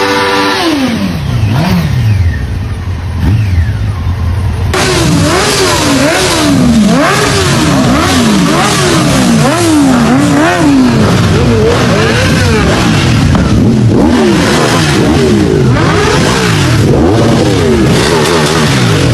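High-capacity superbike engine revved again and again, its pitch rising and falling about once a second. About five seconds in, the sound turns suddenly louder and harsher.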